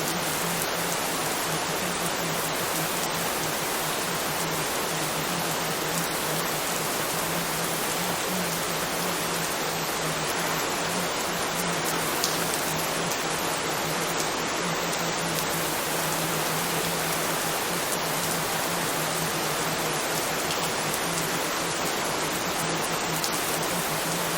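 Steady rain falling, an even hiss with no breaks, with a low steady hum underneath.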